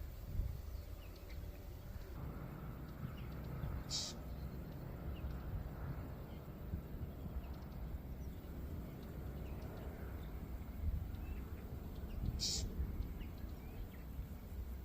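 Whinchat giving two short, high, sharp calls, one about four seconds in and another near the end, over a steady low outdoor rumble.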